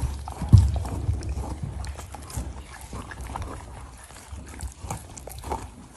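Huskies gnawing and licking at frozen meat treats, with irregular low thuds and scattered clicks.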